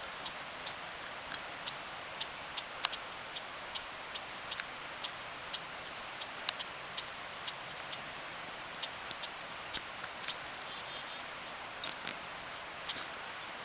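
A squirrel making a steady run of short, sharp, high-pitched clicks, several a second and irregularly spaced, loud enough to be called "so loud".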